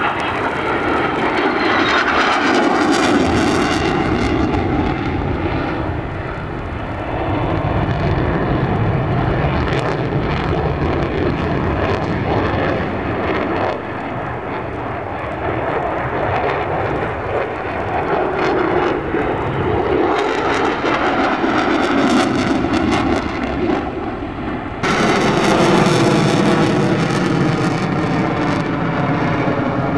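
Engine noise of a fixed-wing aircraft flying a display, swelling and fading as it manoeuvres. About 25 seconds in the sound jumps louder and its pitch falls as the plane passes.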